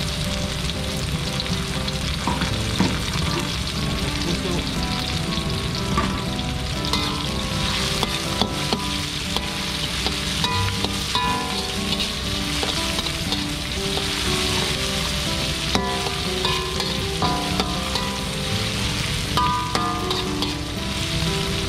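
Garlic, sliced onion and dried anchovies sizzling in hot oil in a wok, stirred with a metal spatula that clicks and scrapes against the pan now and then.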